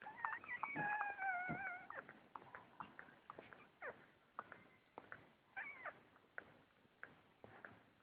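Newborn cocker spaniel puppies crying: a long, high, slightly falling whine near the start and a shorter squeal a little past the middle, with many small clicks in between.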